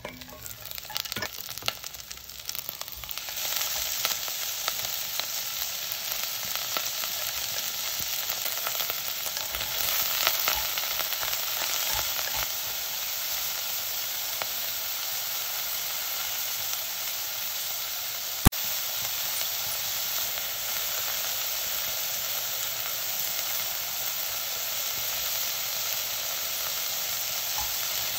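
Diced pork and green onion sizzling in hot sesame oil in a pot, stirred with wooden chopsticks; the sizzle builds over the first few seconds as the food goes in, then holds steady. A single sharp click about eighteen seconds in.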